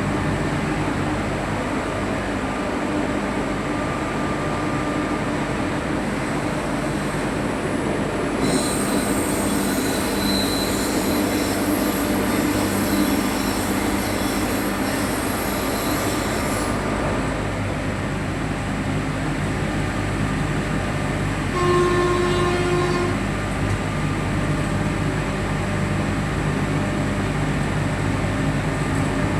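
A locomotive running, heard from its cab: a steady low drone and rumble. About a third of the way in, the wheels squeal against the rails for about eight seconds. Later the horn gives one short blast of about a second.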